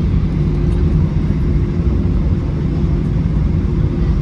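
Airbus A320-214's CFM56 jet engines running, heard inside the passenger cabin as a loud, steady rumble with a steady low hum over it.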